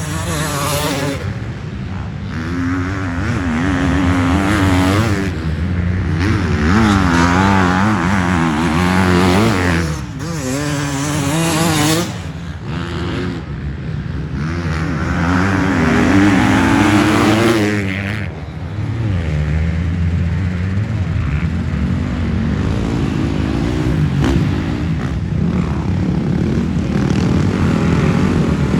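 Motocross dirt bike engines racing past, pitch rising and falling over and over as riders throttle on and off, swelling loudest in waves a few seconds in, near the middle and just past halfway, then settling into a steadier drone.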